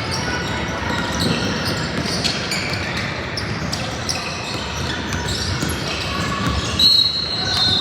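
Game play echoing in a large hall: scattered knocks and short squeaks, with a referee's whistle blown near the end.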